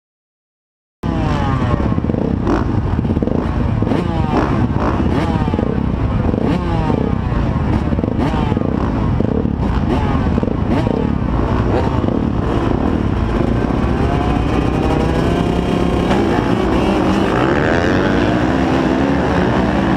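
Several motocross bikes' engines running and revving together, many pitches rising and falling over one another; the sound starts abruptly about a second in.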